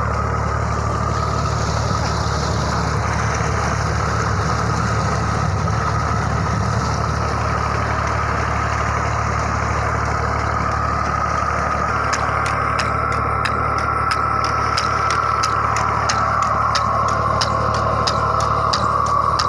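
Tractor engine running steadily, driving a deep-well water pump, with a steady hum and a whine-like band above it. About twelve seconds in, a fast ticking of roughly three clicks a second joins in.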